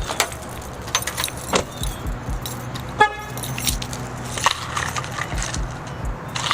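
Car keys jangling among a few knocks, then one short car horn chirp about three seconds in, as when a car is locked with the key fob, over a steady low hum.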